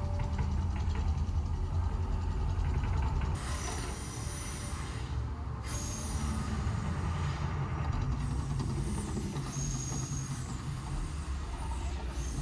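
Steady low rumble of vehicle traffic or a moving vehicle, with a few faint, brief high squeaks. The sound changes abruptly a few seconds in, as the footage cuts from one clip to another.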